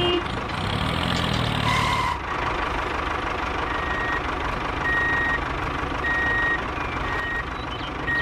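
A DIY mini tractor's motor running steadily, with a thin whine over a noisy engine-like drone. In the second half, short high beeps sound about once a second, like a reversing alarm.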